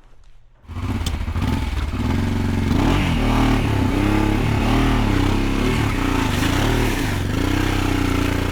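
Maxi-enduro motorcycle engine running under load, coming in abruptly just under a second in, its pitch rising and falling again and again as the throttle is opened and closed.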